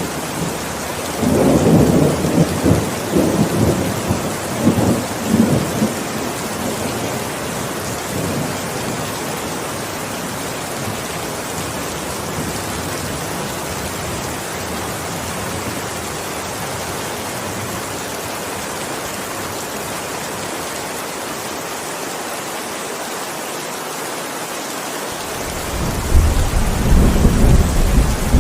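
Steady heavy rain with rolls of thunder: a rumbling roll in the first few seconds, then rain alone, and another thunder rumble starting near the end.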